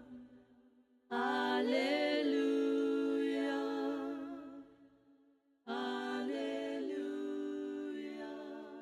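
Unaccompanied voices singing long held notes in harmony, in two phrases separated by short pauses, with small slides between pitches.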